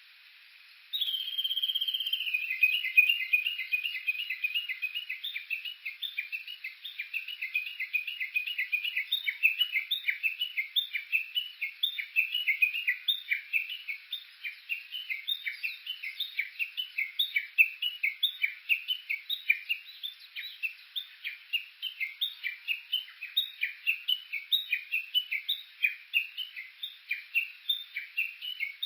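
Japanese bush warbler (uguisu) calling: about a second in, one drawn-out falling note, then a long unbroken run of quick, short, repeated notes, several a second.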